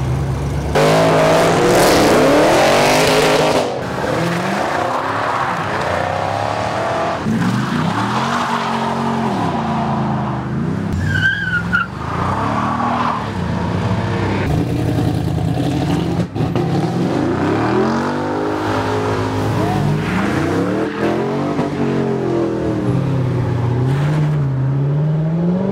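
Car engines revving hard and tyres squealing as cars accelerate away sliding sideways. The revs climb and fall again and again, with the loudest tyre noise about a second to three and a half seconds in.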